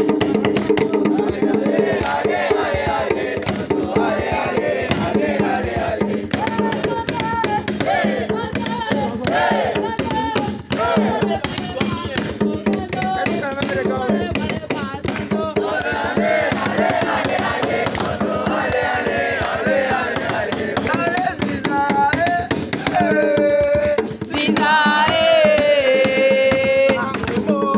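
Group of voices singing a song to fast drumming or hand percussion, with one long held note near the end.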